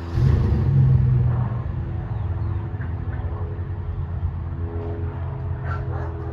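Low engine rumble with a steady droning hum, swelling loud just after the start and then settling into an uneven rumble.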